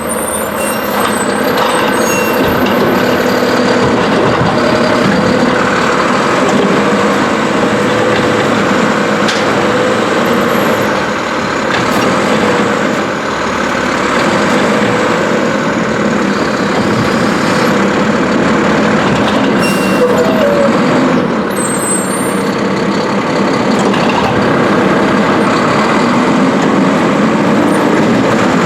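Mack LR garbage truck with a Heil Durapack Rapid Rail automated side-loader body running up close: a steady, loud engine sound with a held tone in it, the level dipping briefly about halfway through.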